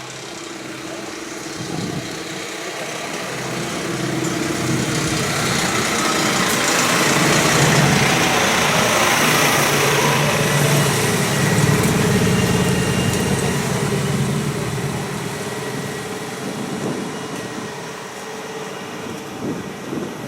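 A tractor engine driving past: it grows louder to its loudest about halfway through, then fades as it moves away.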